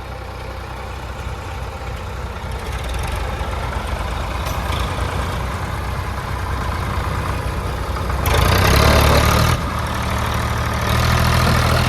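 Sonalika tractor's diesel engine running with a steady low beat, hauling an overloaded trolley. About eight seconds in a loud rushing burst lasts just over a second, and the engine gets louder again near the end.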